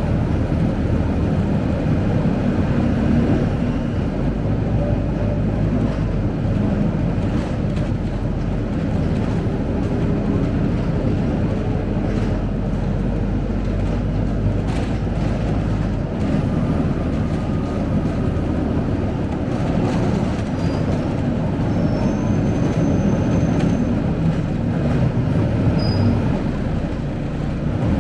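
Scania K270UB single-decker bus under way, heard from inside the cabin: its rear-mounted five-cylinder diesel engine running, with steady low road and drivetrain rumble and the engine note shifting slightly as the bus drives.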